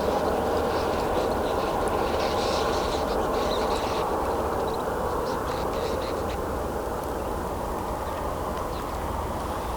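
Flock of snow buntings calling in short high chirps that thin out after about six seconds, over the steady rush of a car on the road that slowly fades.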